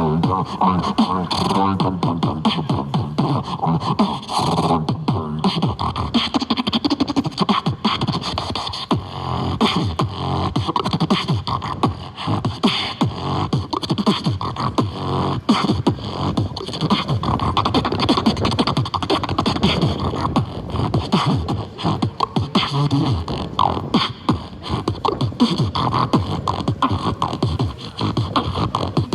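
Beatboxing: a continuous, fast stream of vocal drum sounds made with the mouth, with no break.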